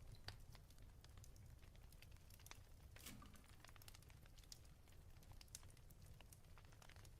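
Faint fireplace crackling: irregular small pops and snaps over a steady low rumble, with a slightly bigger crackle about three seconds in.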